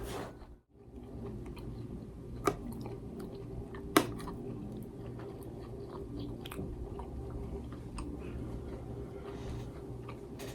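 Close-miked chewing of food, with wet mouth sounds and a few sharp clicks, the loudest about four seconds in.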